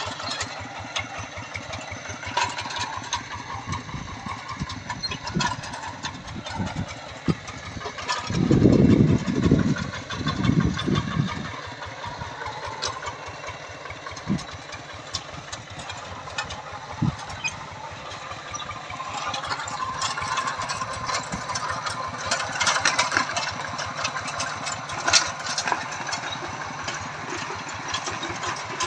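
Tractor engine running steadily, with a louder low surge about eight to eleven seconds in.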